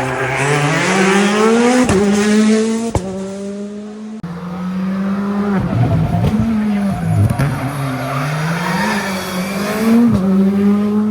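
Rally car engines running hard on a special stage, the pitch climbing and then dropping sharply again and again with gear changes. There are sharp cracks between shifts, and the sound changes abruptly about four seconds in.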